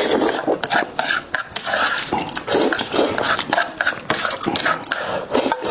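Close-miked eating: wet chewing and mouth-smacking in quick, irregular bursts.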